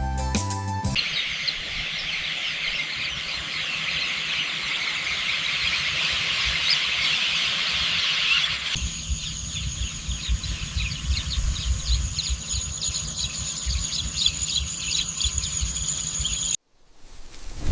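Countryside nature ambience: a dense chorus of high chirping birds and insects. About nine seconds in it changes to a steady high, fast-pulsing insect buzz over a low rumble, then cuts off suddenly near the end.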